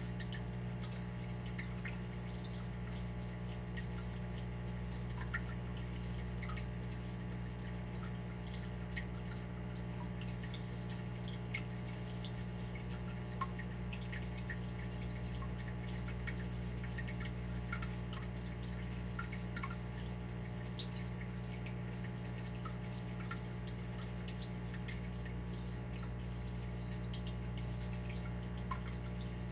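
Water dripping: single drops falling at irregular intervals, a few louder ones standing out, over a steady low hum.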